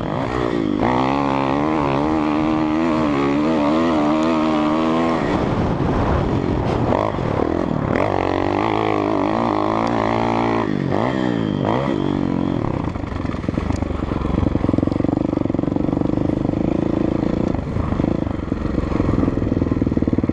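Kawasaki KX450F four-stroke single-cylinder motocross bike engine revving up and down on the track, its pitch climbing and dropping repeatedly. For the last several seconds it holds a steadier, lower beat.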